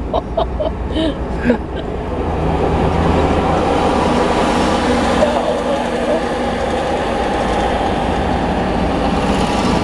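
Tractor engines running close by as they pass. The sound builds up about two seconds in and then holds steady.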